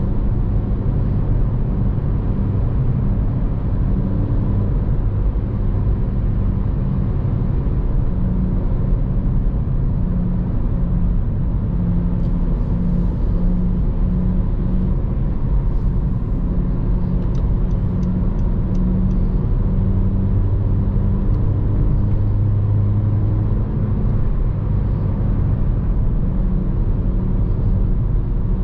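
2014 Honda Civic Si's 2.4-litre four-cylinder engine running steadily under way, with steady road and tyre rumble. A short run of faint, evenly spaced ticks comes about eighteen seconds in.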